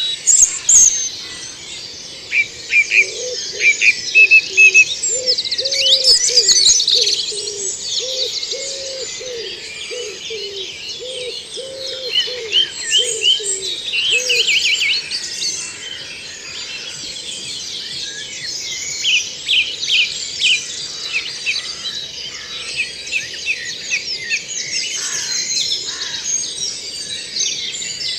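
Woodland dawn chorus: many songbirds singing over one another in dense, overlapping high phrases. From about three seconds in to about fourteen seconds in, a lower call repeats steadily beneath them, about one note a second.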